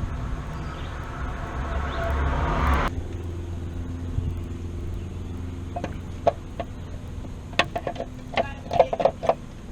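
A rising rush of vehicle noise that cuts off abruptly about three seconds in, leaving a steady low hum; near the end, chickens clucking in a quick run of short calls.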